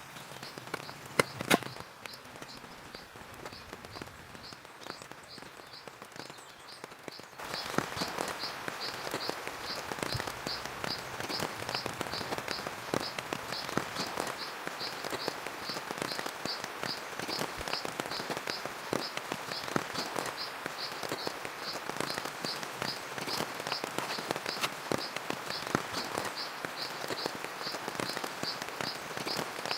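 Rain falling, with many drops ticking on surfaces; it turns abruptly louder about seven seconds in. A high chirp repeats about twice a second throughout, and two sharp knocks come about a second in.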